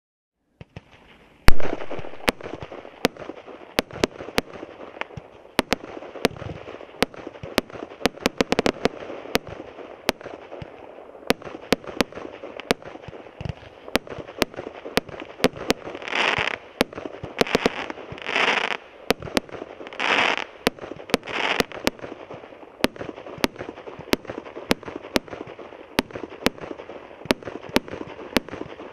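Multi-shot consumer fireworks cake (a 100-shot barrage) firing: a loud bang about a second and a half in, then a steady run of sharp pops about two a second over continuous crackling. Past the middle come four longer hissing bursts a couple of seconds apart.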